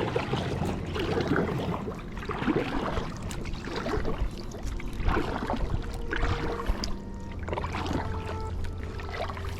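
Kayak paddle strokes dipping and pulling through the water, a swish about every second.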